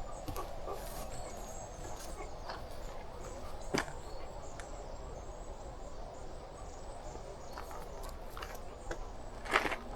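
Woodland ambience on a forest track with scattered crunches of footsteps and a few louder snaps, one about four seconds in and one near the end. Faint high bird chirps come in the first couple of seconds.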